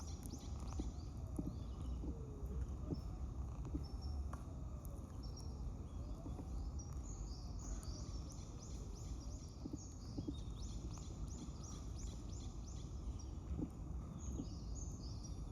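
Small birds chirping: quick runs of short, high notes that come and go, over a steady low rumble of background noise.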